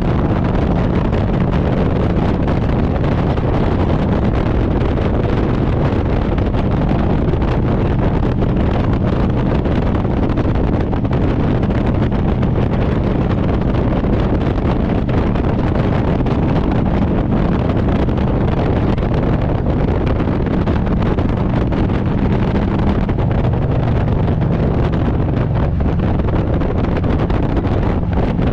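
Harley-Davidson Road Glide's V-twin engine running steadily at cruising speed, with heavy wind rush on the microphone; the engine note shifts slightly about 23 seconds in.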